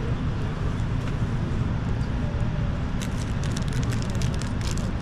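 Steady airliner cabin noise from a Boeing 787-10: a low rumble under an even hiss, with faint light clicks in the second half.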